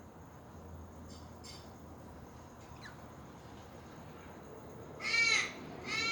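Budgerigar giving two short, harsh squawks close together near the end, after a quiet stretch broken only by a few faint ticks.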